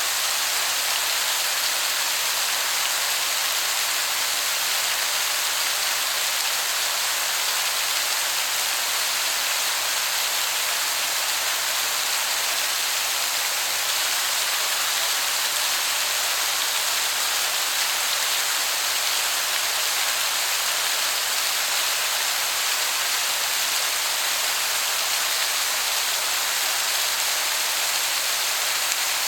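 Waterfall heard from a distance as a steady, even rush of falling water that sounds like heavy rain.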